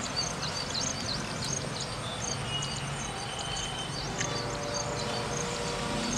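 Outdoor ambience: small birds chirping repeatedly in short high calls over a steady background hiss.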